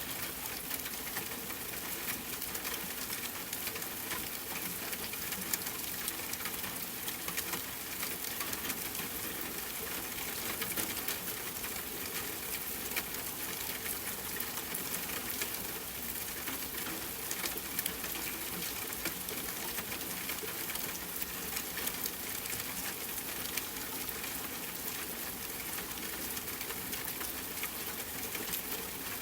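Steady rain pattering on a tent, mixed with campfire crackling: an even hiss dotted with many fine ticks.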